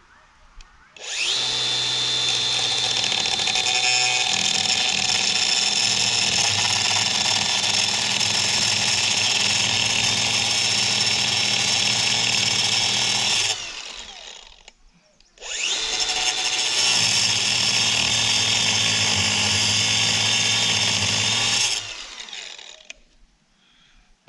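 Angle grinder cutting rebar in two long runs of about twelve and six seconds, with a high steady whine. Each run ends as the motor winds down.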